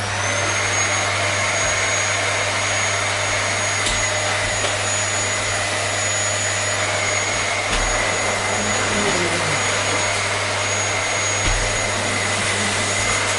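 Vacuum cleaner running steadily: a constant rush of air with two thin, steady high whines over a low motor hum.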